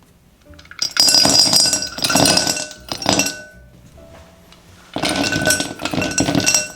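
Frozen mixed berries poured into a glass mixing bowl, clattering and clinking against the glass in two pours: one about a second in lasting a couple of seconds, and a shorter one near the end.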